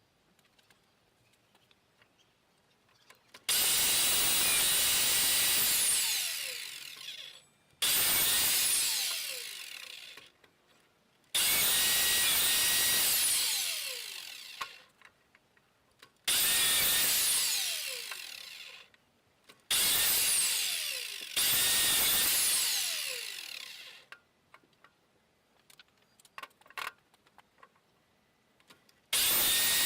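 An electric power tool's motor is switched on at full speed seven times in short runs of two to three seconds. Each time it winds down with a falling whine. The last run starts near the end.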